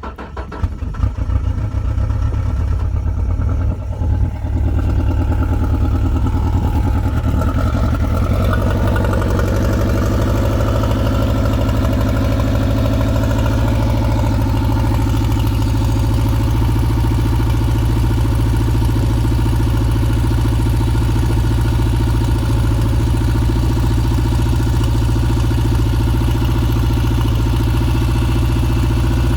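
75 hp Mariner (Mercury) four-stroke outboard motor catching on a cold start, the first start after winter. It falters briefly a few seconds in, then its revs ease down over several seconds to a steady idle.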